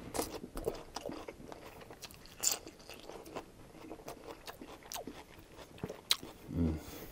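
Close-miked crunchy chewing of a mouthful of cold iceberg lettuce salad with thin-shaved onions, an irregular run of sharp crunches. A short low hum from the eater comes near the end.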